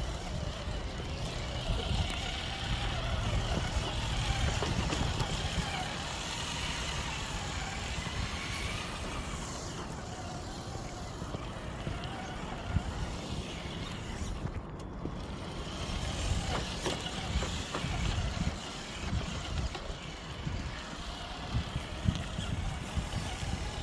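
Steady rumble of traffic on a nearby highway, with a few sharp clicks now and then.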